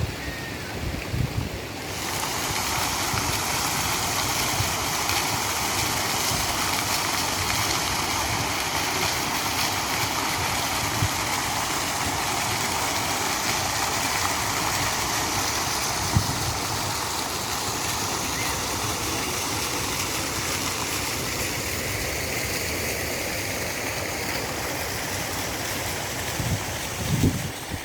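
Steady rush of running, splashing water, as from a park stream or waterfall, starting suddenly about two seconds in, with a few faint low thumps.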